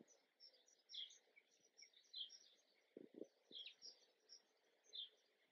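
Near silence with faint bird chirps: short high calls, several a second at times, scattered throughout, and a couple of faint low thuds about three seconds in.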